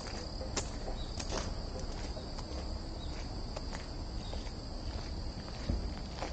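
Footsteps on a soft, matted forest path, an irregular series of muffled steps, over a steady high-pitched insect buzz.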